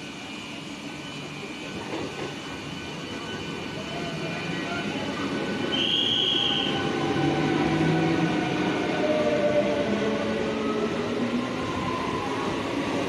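Train approaching and running through the station, its rail noise growing louder over the first six seconds and then staying loud. A brief high horn note sounds about six seconds in.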